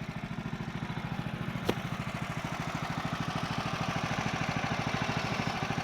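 The sawmill's 14 HP Kohler petrol engine running steadily, its firing pulses evenly spaced. There is one sharp click about a second and a half in.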